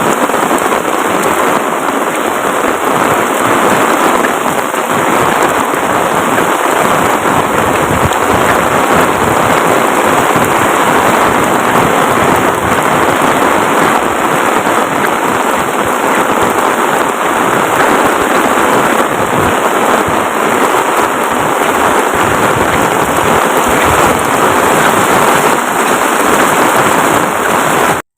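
Heavy rain pouring down in a dense, steady hiss, which cuts off abruptly near the end.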